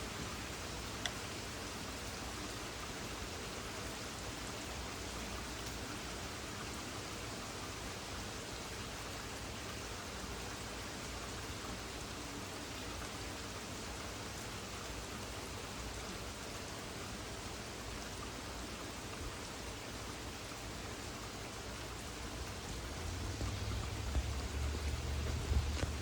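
Steady rain from a thunderstorm, an even hiss with a single faint click about a second in. A low rumble builds near the end.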